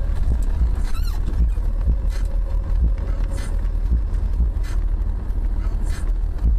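A car driving: a steady low rumble of engine and road noise, with a few faint knocks.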